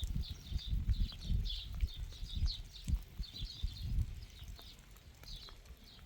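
Wind gusting on the microphone with a low, uneven rumble, under a run of short, high chirps that thin out after about four seconds.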